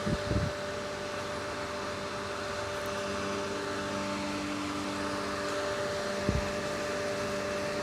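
Steady drone of transformer-drying plant machinery running, with several steady hum tones over a noisy rush. Two brief low thumps come near the start and about six seconds in.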